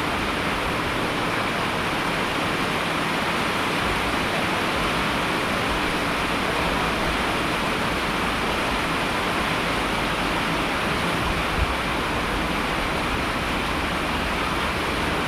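Steady, even hiss of falling water, with one brief tap about three-quarters of the way through.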